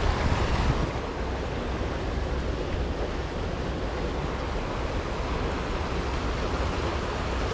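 Steady rushing noise of wind buffeting the microphone, with a flowing river behind it; no distinct events stand out.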